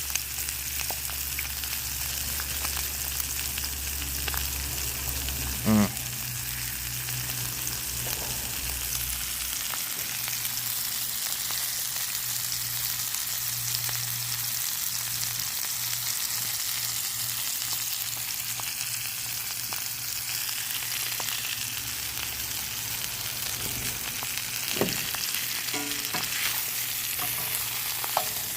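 Steak, mushrooms and eggs frying in garlic butter in a skillet, a steady sizzle with a low hum underneath. A brief loud squeak about six seconds in.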